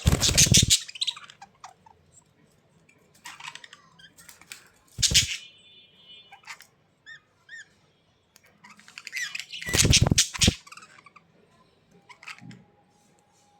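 A bird giving three loud, harsh calls about five seconds apart, at the start, about five seconds in and about ten seconds in, with short, quick chirps and fainter calls in between.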